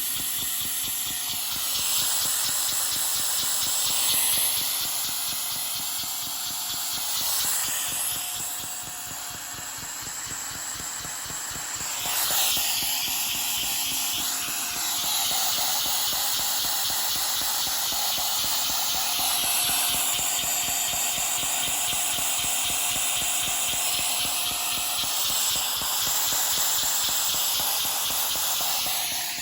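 Lego vacuum engine with dual overhead cams and valves running fast: a steady rush of hissing air over a quick, even clatter of plastic parts, the hiss swelling and easing a few times.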